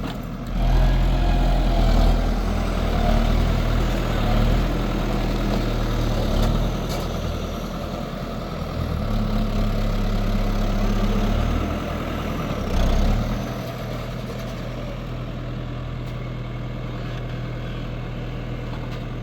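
New Holland TL100 tractor's diesel engine running, its note shifting and swelling briefly about two-thirds of the way in, then running steadily near the end.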